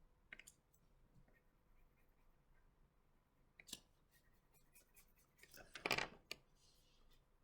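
Faint clicks and short scratchy strokes of crayon colouring on paper, with a louder burst of quick strokes about six seconds in.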